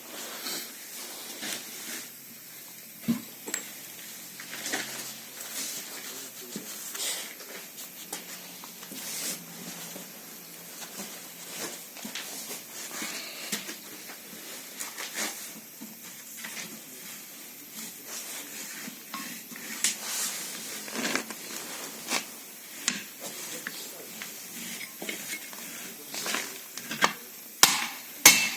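Metal tools and parts clinking, clicking and knocking scattered throughout during work on a Knorr air disc brake caliper. Near the end comes a run of louder sharp metal knocks, a little under two a second.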